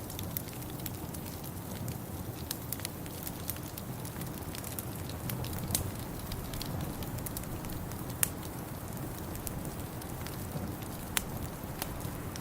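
Wood fire crackling in a fireplace over a steady low rush, with scattered sharp pops, the loudest about 6, 8 and 11 seconds in.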